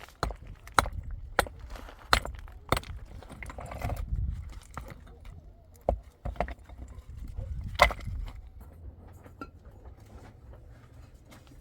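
Irregular knocks and clatters of objects being handled, a few of them sharp and loud, over a low rumble.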